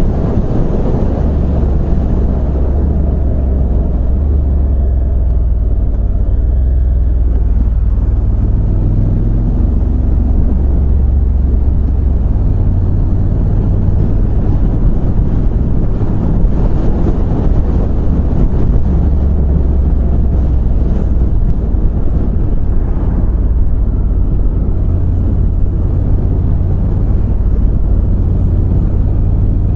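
Motorcycle on the move heard through a microphone inside a full-face helmet: steady wind rumble over a low engine drone that shifts in pitch a few times.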